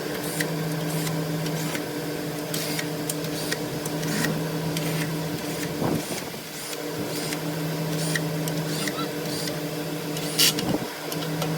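A small electric motor running with a steady hum in spells of a few seconds, its low tone dropping out and returning. Light sharp clicks and taps come in between, one louder click near the end.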